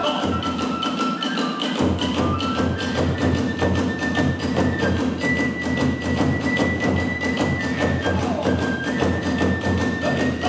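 Kagura hayashi music at a quick, steady beat: a bamboo flute holds long high notes over rapid strokes of the taiko drum and small hand cymbals. The drum comes in heavier about two seconds in.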